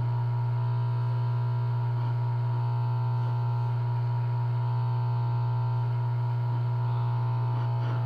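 A steady, loud electrical hum: a low drone with a fainter higher tone layered over it, unchanging throughout.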